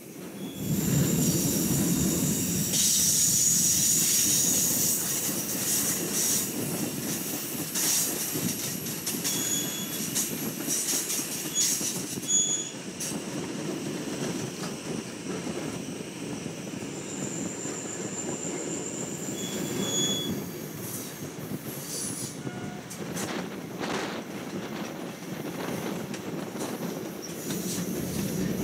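Rocky Mountaineer passenger train rolling along the track: a steady rumble of the cars with high, thin wheel squeal that comes and goes on the curves, and scattered sharp clicks from the rails.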